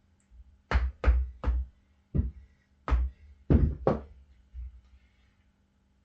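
A series of about seven sharp, hard knocks in quick, uneven succession, with a weaker one after them: tire irons striking and levering against a dirt bike rim while working the last bites of a mousse-lined tire's bead over it.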